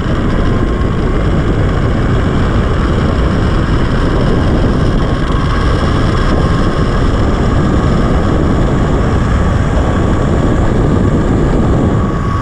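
Steady loud rush of wind over the microphone while riding down a zip line, with a faint steady whine from the trolley's pulley running along the cable.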